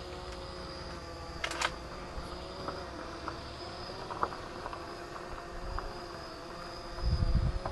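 QX 350 quadcopter's motors and propellers humming steadily in flight, a buzzing drone with a slight waver in pitch. A low rumble comes in near the end.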